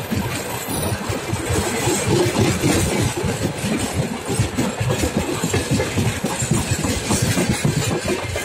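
Freight train of railway tank cars rolling past: steel wheels running on the rails in a steady rumble, with a dense, continuous rattle of clicks from the wheels and couplings.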